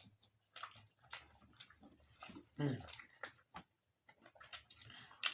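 Close eating sounds: chewing, with scattered wet mouth clicks and smacks, and one short voiced sound falling in pitch about two and a half seconds in.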